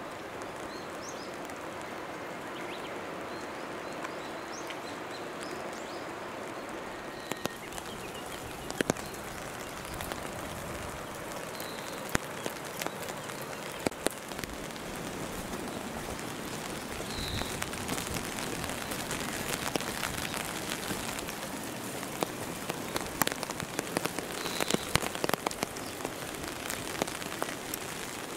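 Rain falling, a steady hiss with scattered sharp drips and taps that come more often from about a quarter of the way in and most densely near the end. A few faint short high chirps sound now and then.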